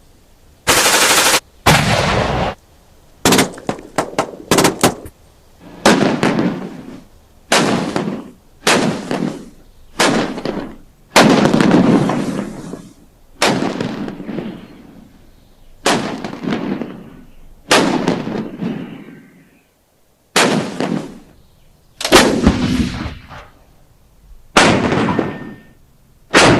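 A series of single gunshots, roughly one every one and a half to two seconds, each with a ringing, echoing tail. There is a quick cluster of several shorter shots about three to five seconds in.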